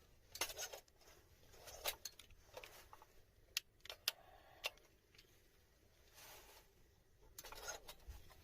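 Faint, scattered small clicks and brief rustles: light handling or crackling sounds, with three sharper ticks around the middle.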